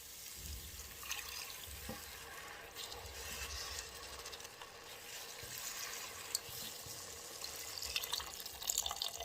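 Chicken broth pouring from a can into a soup pot, a steady liquid pour with a couple of light clicks.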